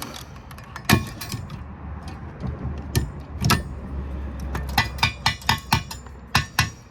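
Sharp metallic clicks and clinks of screws being worked out and handled while a power supply is taken apart, with a quick run of clicks about five seconds in.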